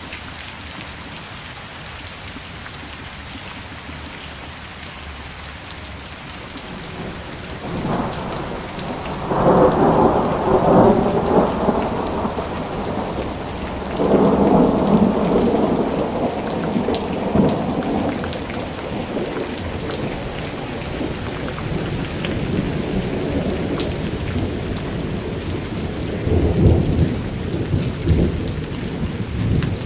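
Steady rain falling, with three rolls of thunder: one building about a quarter of the way in, one around halfway, and one shorter near the end.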